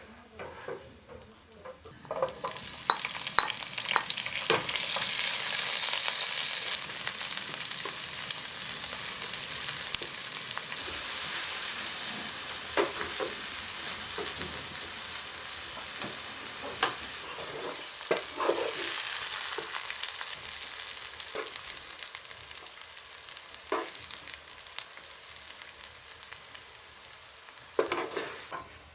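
Food frying in a hot pan: the sizzle starts suddenly about two seconds in, then slowly dies down, with scattered knocks of a utensil against the pan.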